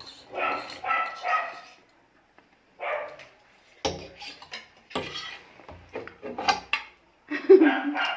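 A pet dog barking several times, with plates and cutlery clinking and knocking in the middle.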